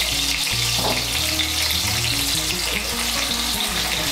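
Potato pieces sizzling steadily as they fry in hot refined vegetable oil in a kadai.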